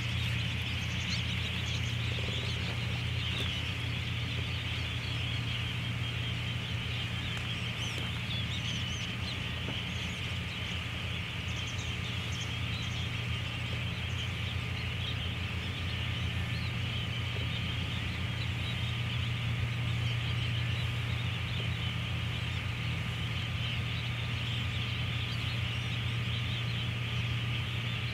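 A dense, continuous chorus of distant bird calls over a steady low rumble.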